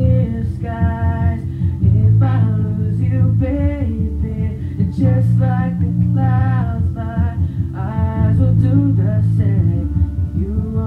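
A male voice singing a slow pop ballad in held, sliding phrases over guitar accompaniment.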